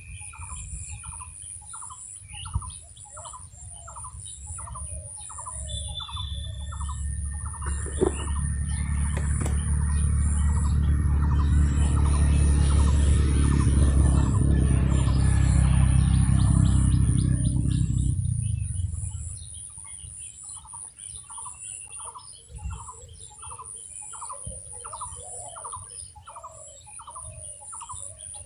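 A bird calling over and over, a short downslurred note about twice a second, over a steady high whine. About eight seconds in a loud low droning rumble swells up, drowns the calls, and dies away a few seconds before the calls return.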